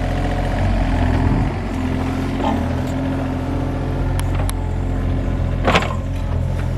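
John Deere 35G mini excavator's diesel engine running steadily, with a few sharp clicks and a louder knock near the end.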